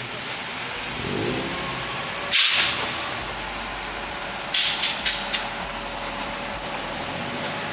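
Bursts of compressed air hissing out: one loud hiss about two seconds in, then a quick run of four shorter hisses about two seconds later, over the steady running of vehicles.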